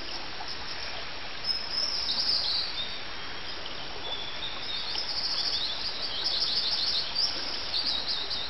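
Bird song: short high chirps and quick trills, more frequent in the second half, over a steady hiss.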